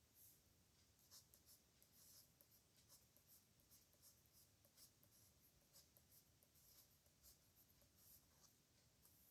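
Faint scratching of a pen on paper in short, irregular strokes, several each second: handwriting.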